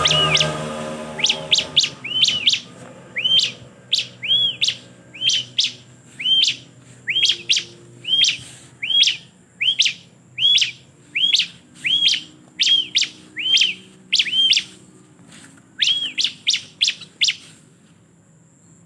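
Bar-winged prinia (ciblek) calling over and over: each call a sharp upward chip followed by an arched note, about one to two calls a second, stopping near the end. A low pitched sound, perhaps music, fades out in the first second.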